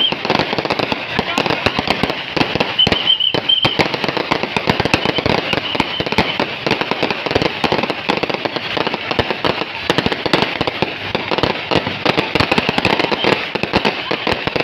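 Fireworks and firecrackers crackling in a dense, continuous rapid stream of sharp pops, with a brief high whistle about three seconds in.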